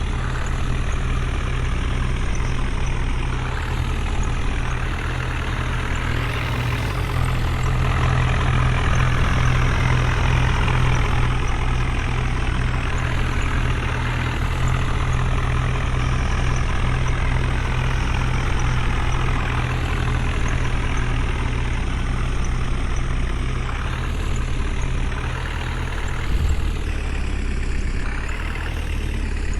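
Heavy diesel engine running steadily with a deep hum, growing somewhat louder for a few seconds about a quarter of the way in.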